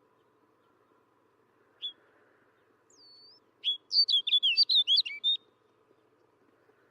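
Snow bunting singing: a single short note, then a faint sliding whistle, then a brief, fast warbling phrase of about a dozen clear whistled notes lasting under two seconds.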